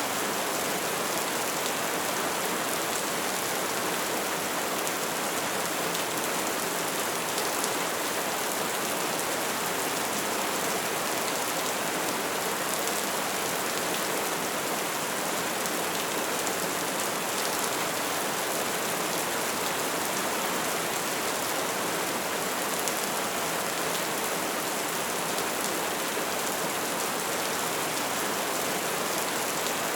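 Wood fire crackling steadily: a dense hiss of small crackles with an occasional sharper pop.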